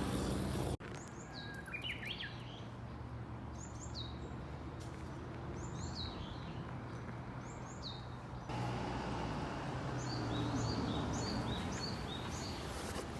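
Small songbird calling with short, high notes that slide downward, repeated every second or so, then a quicker run of paired notes later on. Faint steady low hum underneath.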